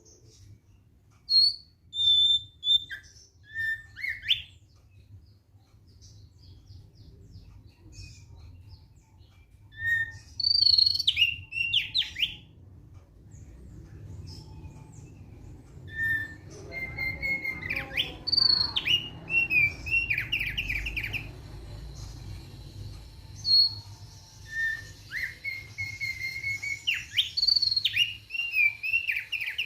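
Thick-billed heleia (opior paruh tebal) singing in short phrases of clear whistled notes and quick trills, with pauses of a few seconds between phrases.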